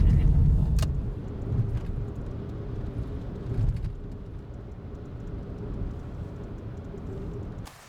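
A car's low road and engine rumble, with a faint steady hum, gradually easing off, then cut off abruptly near the end.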